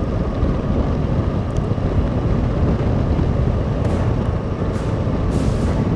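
Strong wind buffeting the microphone during a motorcycle ride in a snowstorm, a steady low rumble with the Suzuki V-Strom SX 250 and its road noise underneath. A few brief hissing gusts come near the end.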